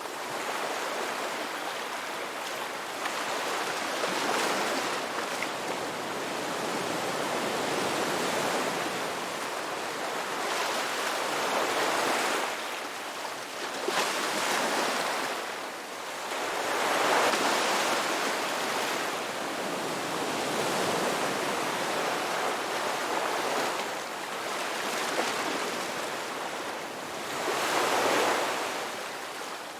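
Ocean waves breaking and washing up a beach, the surf swelling and falling back every several seconds.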